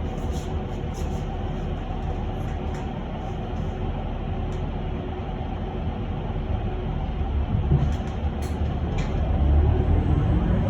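Cabin noise of an electric bus in motion: a steady low rumble with a faint steady whine, growing louder near the end.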